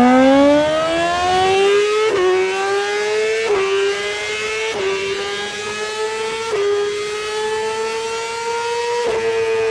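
Superbike engine accelerating hard through the gears: a loud, high-revving note climbs in pitch and drops sharply at each upshift, five times, easing slightly after the last shift near the end.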